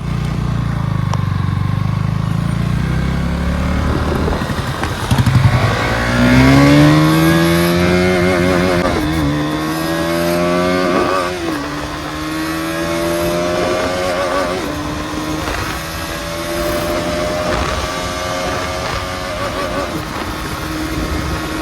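KTM Duke 200 single-cylinder engine idling, then revving up about five seconds in as it is put through the gears: the engine note rises and drops twice, then holds a steady higher speed with a few small dips. The gearbox is driving the rear wheel again after the output shaft was replaced.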